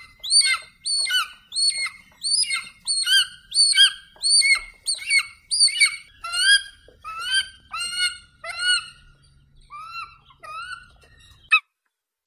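Bald eagle calling: a long series of high, whistled chittering notes, about two a second, each rising then falling in pitch. The calls grow fainter after about nine seconds and stop abruptly near the end.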